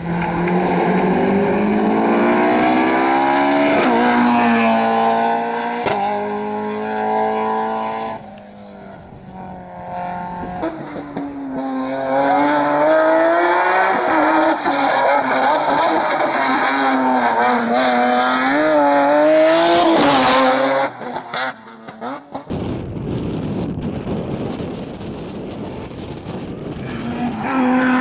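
Rally cars driven hard, one after another: engine revs climb and drop through quick gear changes, then rise and fall as the throttle is lifted and reapplied through corners. A short burst of rushing noise comes about two-thirds of the way through.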